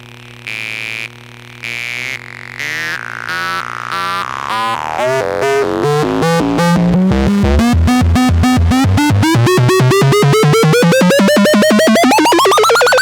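Electronic synthesizer noise from a feedback loop run through a Korg NTS-3 effects unit. A low steady drone sits under repeating pulses that start about once a second and speed up into a continuous buzz, while a pitched tone climbs steadily higher and jumps up near the end.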